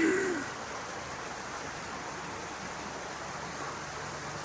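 Steady, even rushing outdoor noise with a faint low hum and nothing distinct on top, after a short falling sound at the very start.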